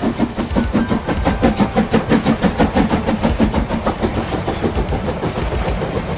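Train running with a fast, even, rhythmic chugging, about four or five beats a second, over a low hum.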